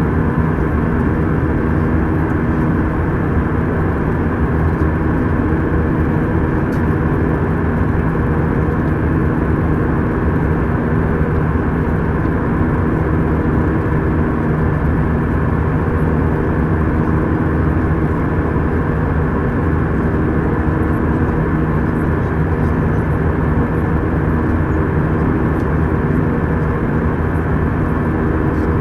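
Steady cabin noise of an Airbus A319 airliner in flight: the jet engines' drone and rushing airflow, with a low steady hum and no change in level.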